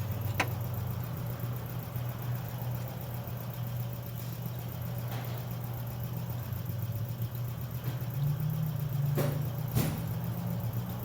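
An engine idling steadily, with three sharp clicks: one just after the start and two close together near the end.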